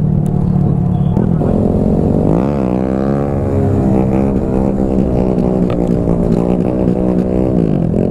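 Honda Grom's 125 cc single-cylinder engine running under way, its revs dropping sharply and climbing back about two and a half seconds in, then rising and falling with the throttle.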